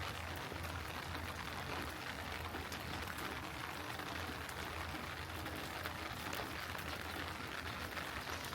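Steady heavy rainfall, with many individual drops ticking sharply over an even hiss.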